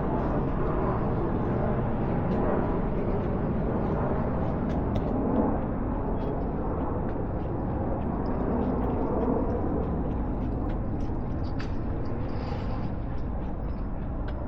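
Steady outdoor background rumble, like distant city traffic, with a few faint ticks.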